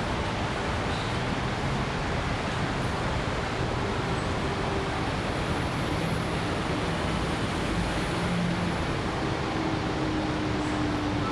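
Steady urban road-traffic noise from many vehicles passing continuously, with a faint engine drone from one passing vehicle in the second half.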